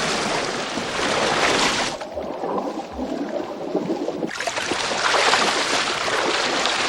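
Fast-flowing shallow river water rushing and splashing as a steady hiss. It turns duller for about two seconds in the middle, then comes back full.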